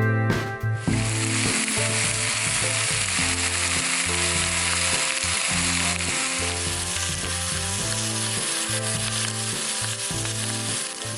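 Food sizzling and frying in a pan, a steady crackling hiss that starts about a second in and cuts off at the end, with background music underneath.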